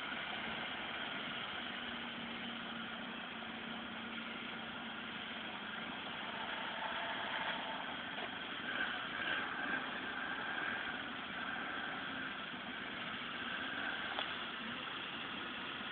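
Vehicle engine idling steadily, with small rises and dips in level.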